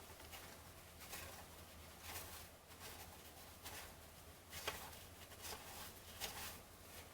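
Faint, irregular rustling and soft flicks of baseball cards being handled and sorted through one by one, a few slightly louder flicks in the second half.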